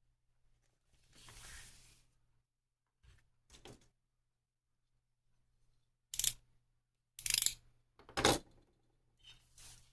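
Handling noises at a modelling bench: scattered clicks, scrapes and knocks of small plastic parts and tools being picked up and set down, with three louder knocks in the second half.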